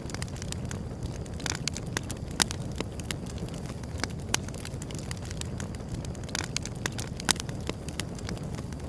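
Wood fire burning with a steady low rumble and frequent sharp crackles and pops, two of them louder than the rest, about two and a half seconds and seven seconds in.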